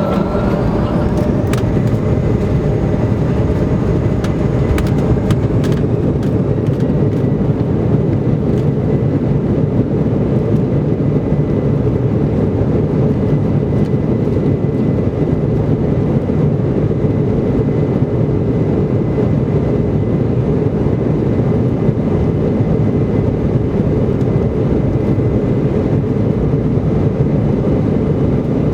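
Embraer 170's GE CF34-8E turbofan engines at takeoff thrust heard from inside the cabin: a loud, steady rumbling roar of the takeoff roll. A rising whine from the engines spooling up ends about a second in, and a few sharp clicks or rattles come in the first few seconds.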